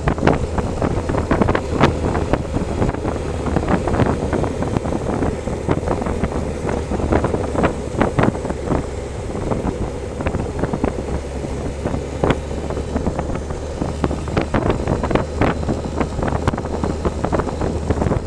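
Motorcycle running steadily on the road, its engine a constant low drone under heavy, gusting wind buffeting the microphone.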